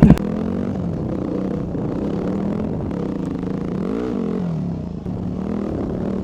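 Dirt bike engine running at low speed on a trail, with a brief rise and fall in revs about four seconds in.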